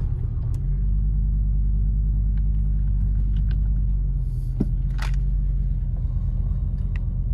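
1986 Audi 4000CS Quattro's inline five-cylinder engine idling steadily just after a cold start, heard from inside the cabin. A couple of brief clicks come about four and a half and five seconds in.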